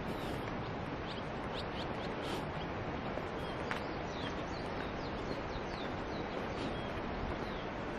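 Birds chirping, short high calls and quick falling notes scattered over a steady outdoor hiss.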